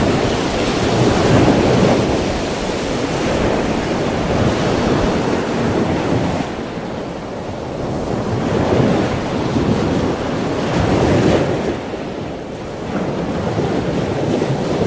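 Ocean surf: waves breaking and washing in a steady rush that swells and eases every few seconds.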